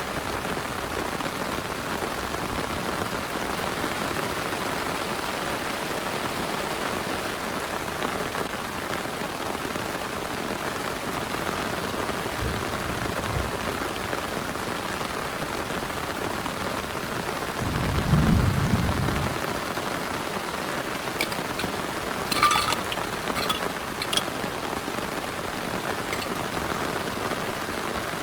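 Heavy rain pouring steadily, an even hiss of many drops. About two-thirds of the way through there is a brief low rumble, and a few sharp clicks follow shortly after.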